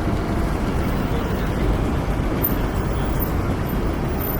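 Steady city road traffic noise: a continuous rumble of passing cars and buses on a busy street.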